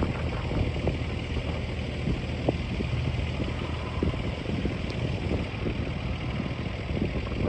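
Coal train cars rolling past: a steady rumble of wheels on rail, with frequent sharp clicks and clacks from the wheels.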